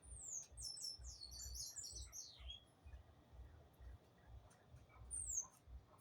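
Small birds chirping: a quick flurry of many short, high, down-slurred calls over the first two seconds or so, then a single call about five seconds in, over a faint low rumble.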